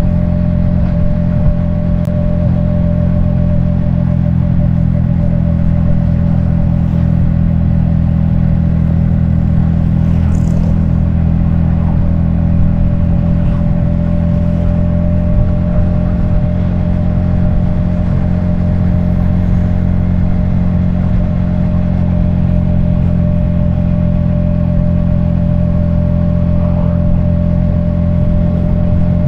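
Yamaha XSR155's 155 cc single-cylinder engine and exhaust running at a steady speed while riding, heard from the rider's helmet; the pitch holds level throughout, with no revving up or down.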